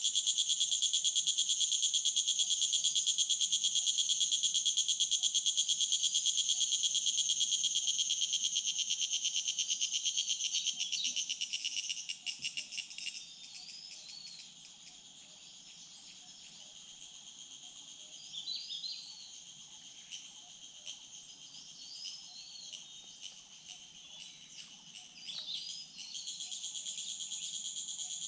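Insect chorus in the forest: a loud, rapidly pulsing high-pitched trill that fades out about halfway through and comes back near the end. Short high chirps sound in the quieter stretch between.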